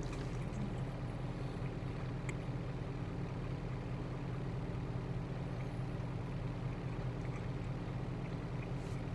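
Truck engine idling steadily, heard from inside the cab, a constant low hum with a few faint small clicks.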